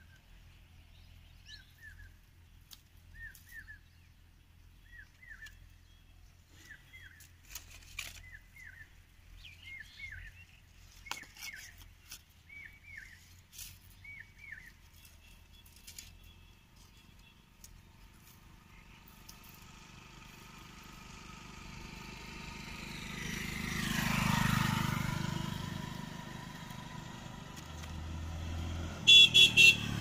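A small bird chirps short, repeated calls about once a second through the first half, with twigs and leaves crackling as the bush around the nest is handled. Then a motor vehicle passes, rising to its loudest about two-thirds of the way through and fading away. A few sharp clicks come near the end.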